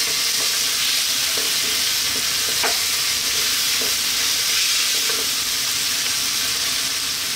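Tomatoes, onion and garlic sizzling steadily in oil in a nonstick wok, stirred with a wooden spatula that scrapes against the pan now and then.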